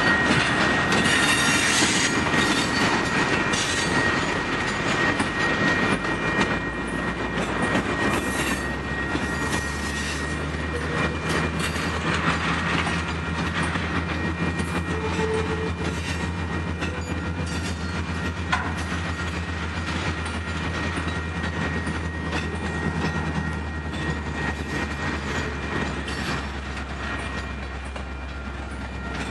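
A freight train of tank cars rolling past, its wheels clacking steadily over the rail joints with a thin, steady squeal. About eight seconds in, a low steady hum joins, and the train sound slowly fades.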